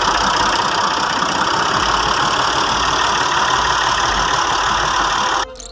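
Tractor engine running steadily, cut off abruptly near the end by a brief burst of steady tones.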